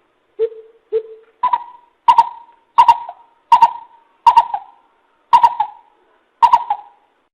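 Coucal (bìm bịp) calling: a series of nine loud hoots, the first two lower and the rest about an octave higher, roughly one every three-quarters of a second.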